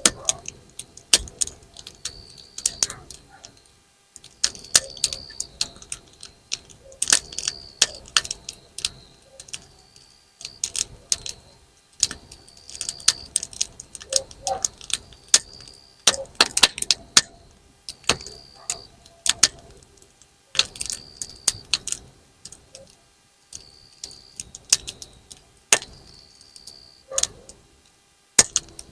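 Wood campfire burning with dense, irregular sharp crackles and pops, like snap-pop firecrackers going off, and brief high hissing spells between them.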